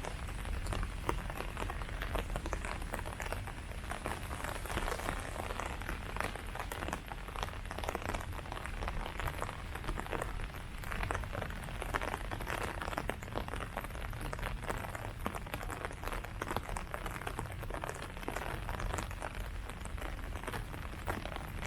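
Steady rain falling on leaves, a dense continuous patter of many small drops.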